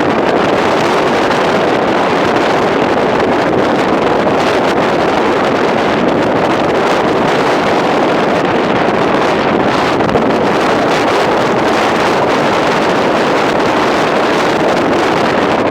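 Steady rushing noise of strong storm wind buffeting the microphone, even and unbroken, with no distinct engine tones.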